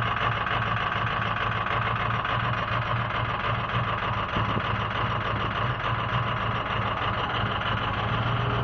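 2006 Ford 6.0L Power Stroke V8 turbo-diesel idling steadily on a cold start, through an exhaust that the owner says needs a proper replacement.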